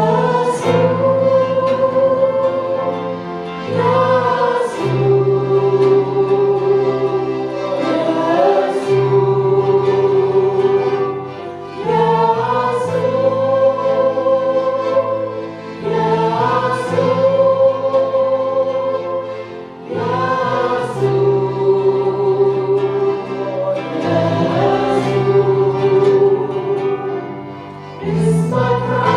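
Christian worship song sung with instrumental accompaniment: voices hold long notes in phrases of about four seconds over a bass line that shifts with each phrase.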